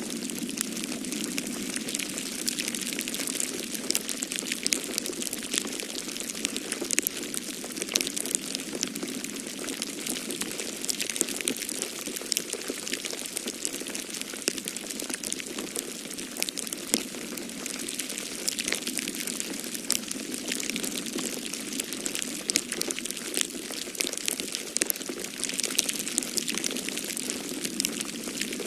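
Wood fire crackling in a fireplace: a dense run of small sharp pops and snaps over a steady hiss. Beneath it, a steady low rush of storm wind, swelling a little at times.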